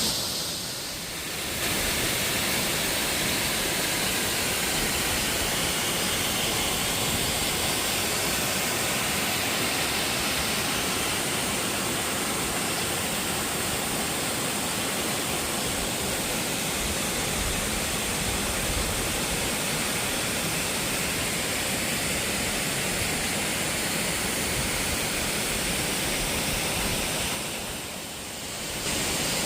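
Waterfall: falling water making a steady, even rushing noise, which dips briefly about a second in and again near the end.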